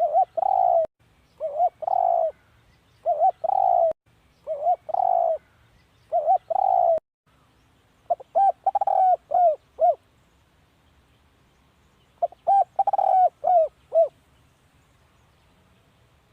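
Spotted dove cooing: a run of short two-note coos about every second and a half, then two longer phrases of several coos each, with a pause of about two seconds between them. This is the dove's territorial calling, used as a decoy call to draw in wild spotted doves.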